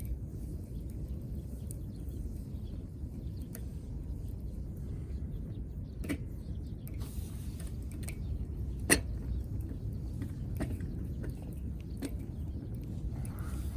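Wood fire burning with a low steady rumble and a few sharp pops of burning wood, the loudest about nine seconds in.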